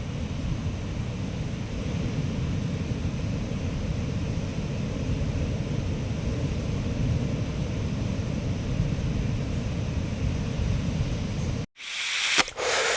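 Steady, low rushing outdoor noise. Near the end it cuts out abruptly, and a short loud hiss follows.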